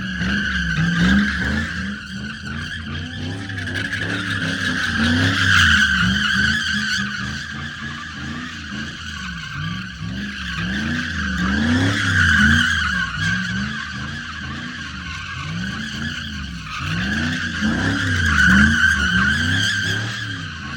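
Vehicle engine revving up and down over and over while its tires screech without a break, spinning in a burnout or donuts; the screech swells louder several times.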